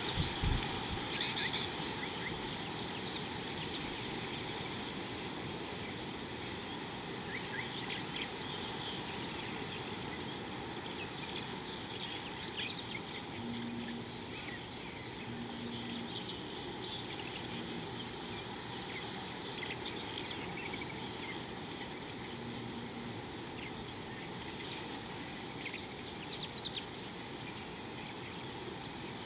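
Wild birds chirping in short, scattered calls over a steady outdoor background hiss, with a brief low thump right at the start.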